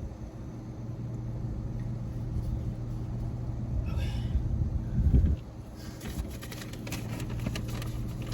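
Steady low rumble of a car's interior with the engine running. There is a brief low thump about five seconds in. From about six seconds in comes a dense crinkling, like a paper food bag being handled.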